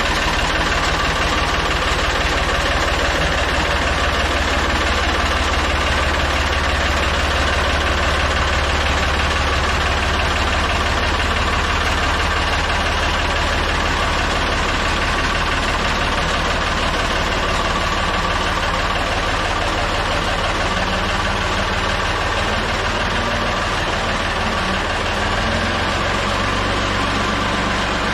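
Backhoe engine idling steadily, with a slight drop in loudness near the end.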